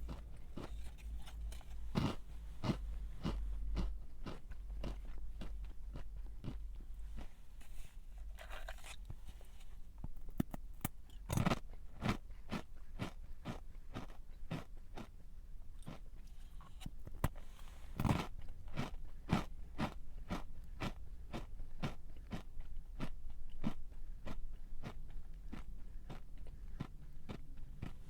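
A person chewing a crunchy snack close to the microphone: a steady run of crisp crunches, about two or three a second, with a few louder bites.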